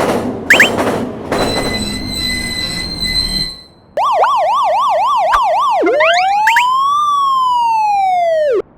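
Cartoon sound effects: a noisy whoosh and rumble with a steady ringing tone for the first three seconds or so. Then a police siren, first a fast yelp rising and falling about four times a second, then switching to one slow wail that rises and falls before cutting off suddenly.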